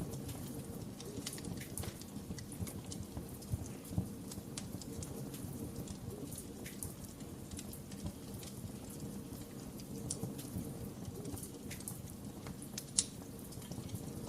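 Fireplace fire crackling: a steady low rumble of flames under frequent small sharp pops, with a louder snap about four seconds in and the loudest one near the end.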